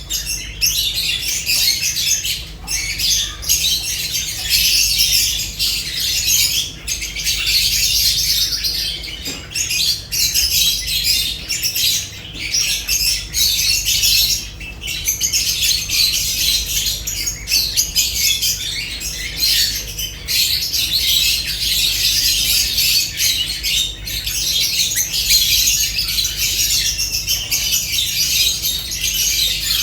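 Lovebirds chattering, a dense run of high-pitched chirps and squawks with only brief dips.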